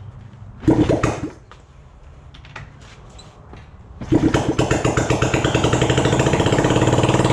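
Honda CB250 motorcycle engine being cranked over in an attempt to start it after more than 30 years without running. From about four seconds in it turns over with a fast, even chugging for a few seconds without settling into a run. A short loud burst comes about a second in.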